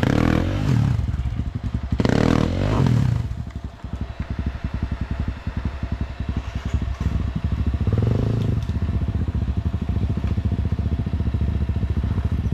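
Motorcycle engine revving hard twice in the first three seconds, then running steadily at lower revs.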